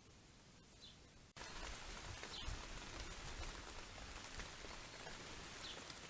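A small bird's short, high chirps over a faint background. About a second in, the sound cuts abruptly to steady rain pattering with many small drop ticks, and the bird chirps twice more through it.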